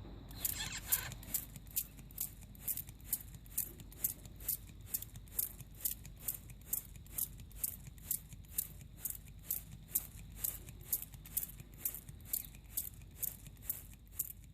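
Water spraying in short, even squirts, nearly three a second, stopping sharply near the end.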